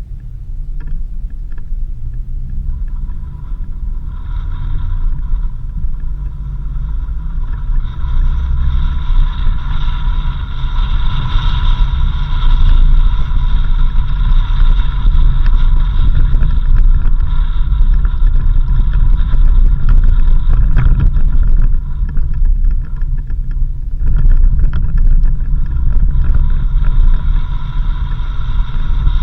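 Vehicle driving along a dirt road: a continuous low rumble of engine and tyres with a steady whine, growing louder over the first dozen seconds.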